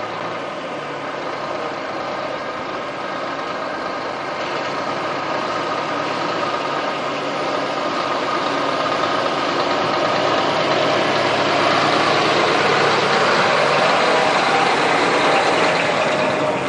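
Scania R420 truck's six-cylinder diesel engine running steadily, getting gradually louder.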